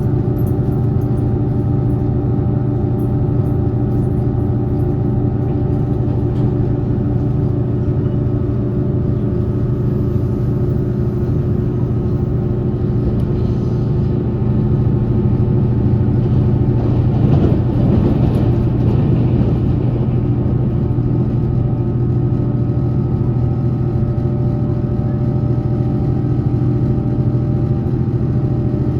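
Taiwan Railway passenger train running at steady speed, heard from aboard: a constant low hum with steady motor tones and wheel-on-rail noise, and a brief louder rush of noise a little past the middle.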